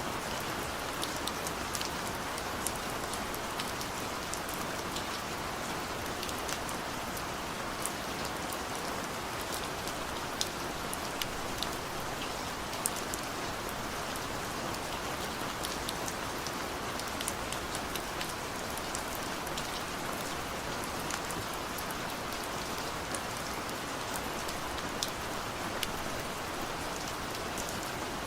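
Heavy rain falling steadily, a dense hiss with many sharp drop ticks on close surfaces.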